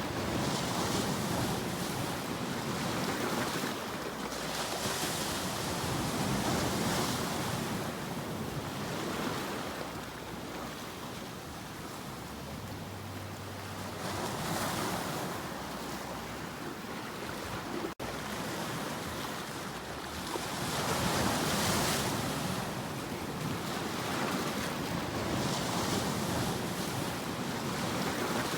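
Ocean surf: waves breaking and washing in, swelling and ebbing in slow surges every few seconds over a steady rush of water. The sound cuts out for an instant about two-thirds of the way through.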